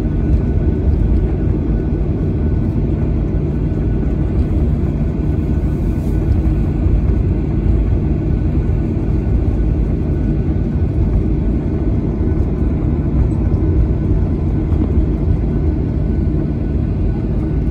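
Steady cabin noise inside a Boeing 737-800 airliner: an even, loud rumble of the CFM56 turbofan engines and airflow, with a faint steady whine above it.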